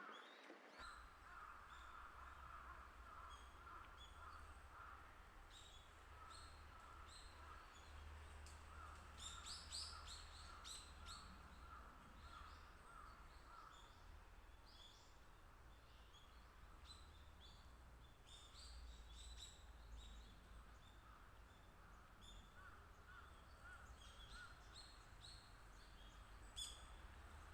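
Faint wild birds calling: runs of short repeated notes and scattered high, thin chirps over a steady low rumble.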